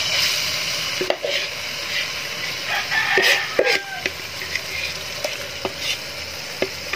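Chopped garlic and onion sizzling in a little hot oil in a wok as they are sautéed, with a metal spoon scraping and clicking against the pan. The sizzle is loudest as they go in and slowly eases, with a busier burst of stirring about three seconds in.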